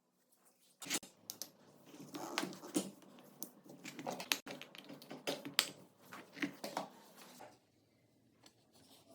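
Irregular light clicks, taps and rubbing of small parts being handled, starting about a second in and stopping well before the end.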